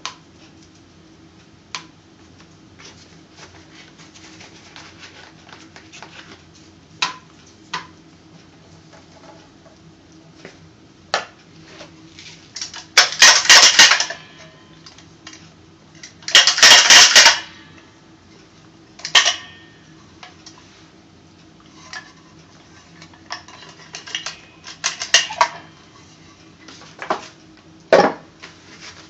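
Top-O-Matic cigarette-filling machine being worked by hand, its metal mechanism clicking and clattering: scattered sharp clicks, two loud rattling strokes of about a second each near the middle, and smaller clatters later.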